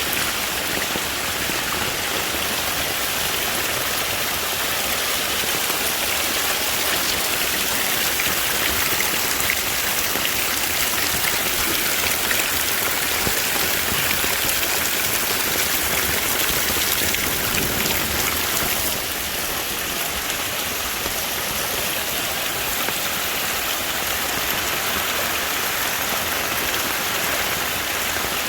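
Heavy, steady rain from a tropical storm pouring down and drumming on surfaces, with a slight drop in intensity about 19 seconds in.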